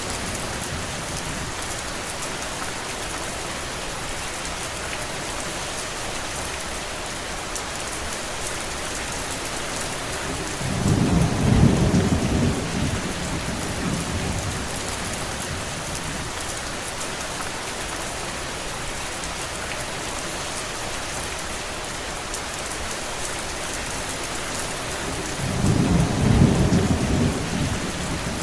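Steady heavy rain falling, with a low rumble of thunder lasting a few seconds about eleven seconds in and another near the end.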